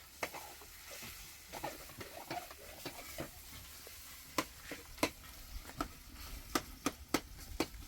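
Food frying in a pan over an open fire: a steady sizzle, broken by sharp clicks and taps that come more often in the second half.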